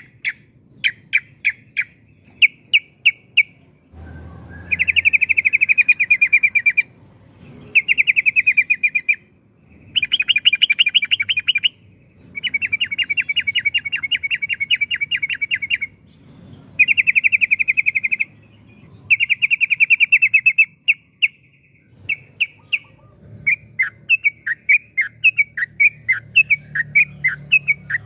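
Yellow-vented bulbul (trucukan) singing: long, rapid trills of two to three seconds each, repeated with short pauses, between runs of separate short chirps at the start and again near the end.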